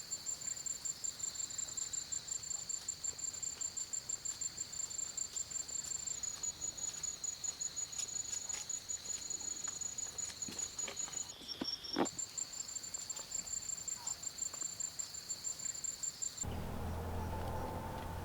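An insect chirping in a steady high-pitched trill of rapid, even pulses. Its pitch steps down slightly about six seconds in and shifts briefly near the twelve-second mark, with a single click. It cuts off abruptly near the end, where a steady low rumble takes over.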